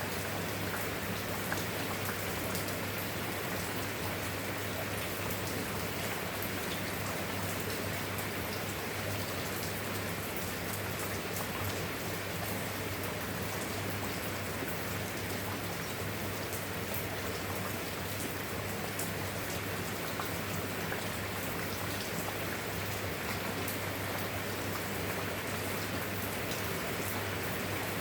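Steady rain, falling evenly, with many small drop impacts ticking on a surface, over a constant low hum.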